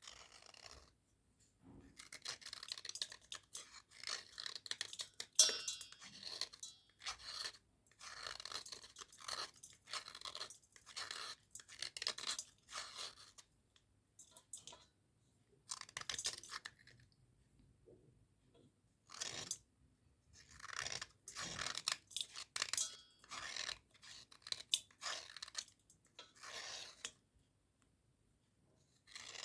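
Dry cubical slate pencils crunching and scraping in short, irregular bursts, with brief pauses between them.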